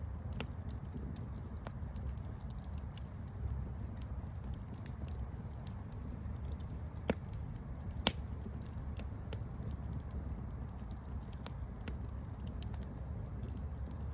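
Campfire burning: a low steady rumble of the flames with scattered sharp crackles and pops of burning wood, two louder pops about seven and eight seconds in, the second the loudest.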